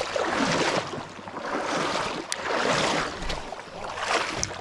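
River water sloshing around a wading angler's legs, rising and falling in four swells, one with each stride.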